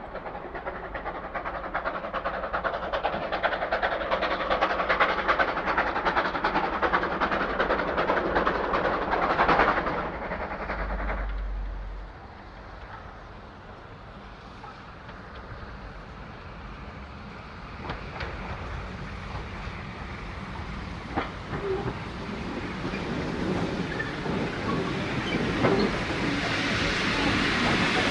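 A train running past on the rails, its wheels clattering, growing louder to a peak about ten seconds in and then falling away abruptly. A quieter stretch follows with a few sharp clicks, then the rail noise builds again near the end.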